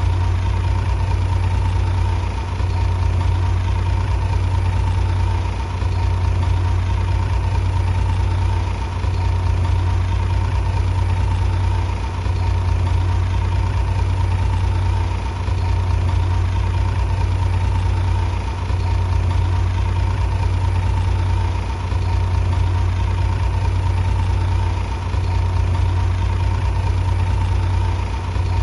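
Bulldozer's diesel engine running steadily at an unchanging pitch, a deep hum with a slight dip in level about every three seconds.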